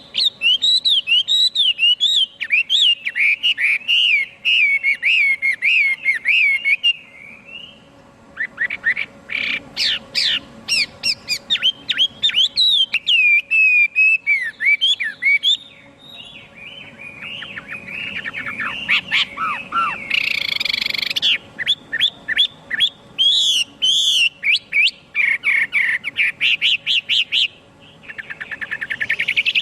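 Chinese hwamei (melodious laughing thrush) singing a long, varied song of rapid whistled phrases and fast trills, with a few short pauses.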